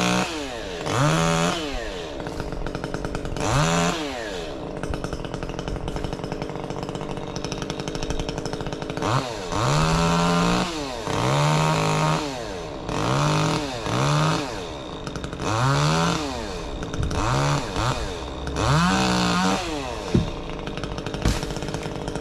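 Stihl MS 150 T top-handle chainsaw with an opened-up muffler, idling and revved up hard about eight times in short bursts, each rev rising and falling back to idle.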